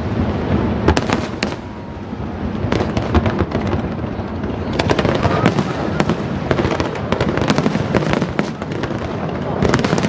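Fireworks finale: a continuous rumble of shell bursts with many sharp crackling reports, thickest in the second half.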